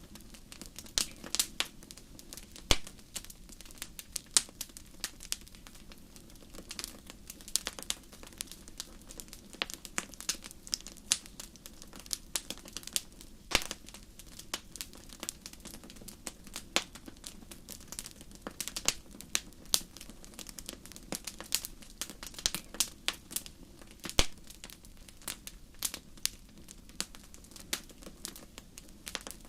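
Wood fire in a fireplace crackling: irregular sharp pops and snaps, some much louder than others, over a faint steady low rush.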